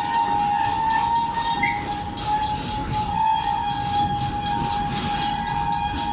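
Serengeti Express park train running past: a steady two-note whine held throughout over a fast, even clicking and a low rumble.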